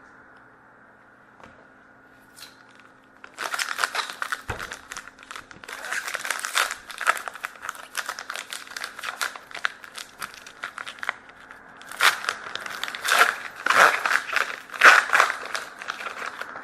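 A trading-card pack wrapper being torn open and crumpled, in two spells of dense crinkling: from about three seconds in to about eleven, then louder from about twelve seconds to near the end.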